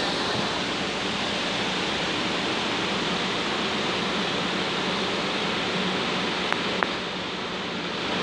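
Regional passenger train running away into a rail tunnel: a steady noisy rumble of wheels on track. Two short sharp clicks come about six and a half seconds in.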